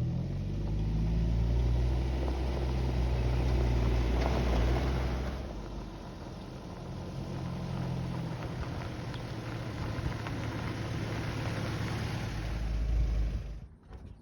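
Car engine running at low revs with a steady low rumble. It is loudest for the first five seconds, eases off, swells briefly again, and cuts away sharply just before the end.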